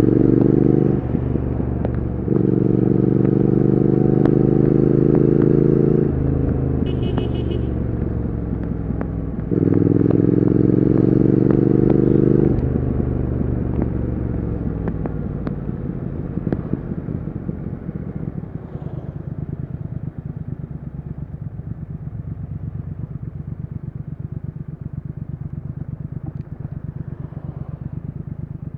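Triumph Speed Twin 1200's 1200 cc parallel-twin engine accelerating hard through the gears. Its note climbs in three pulls, each cut off by an upshift. In the second half it eases off and fades to a low, even running beat.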